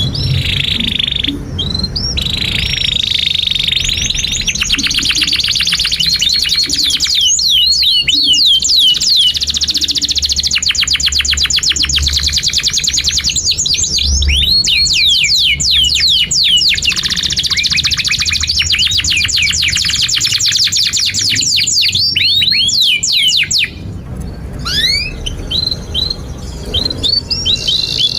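Domestic canary singing a long, loud song: rapid trills of fast-repeated sweeping chirps, changing from one trill to the next. The song breaks off about 24 seconds in, leaving a few scattered chirps near the end.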